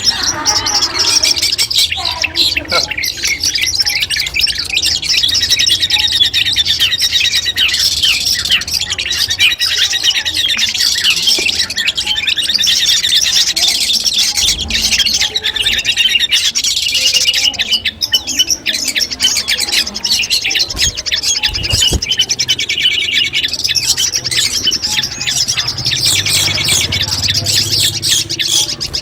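Long-tailed shrike (cendet) singing a rapid, unbroken stream of varied chirps and trills.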